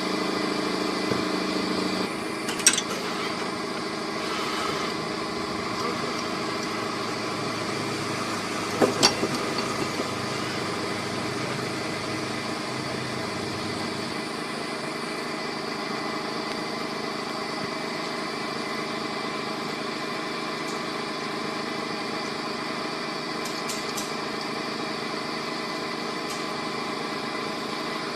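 Timor DOHC car's engine idling steadily, with a few sharp knocks about three and nine seconds in.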